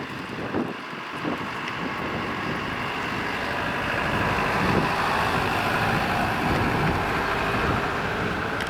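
Small bus driving past: engine and tyre noise swell to a peak about halfway through, then slowly fade.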